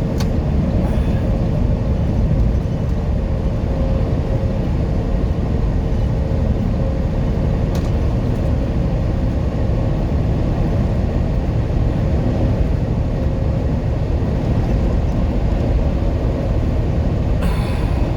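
Steady road and engine noise inside a truck cab at highway speed: a continuous low rumble with a faint steady hum.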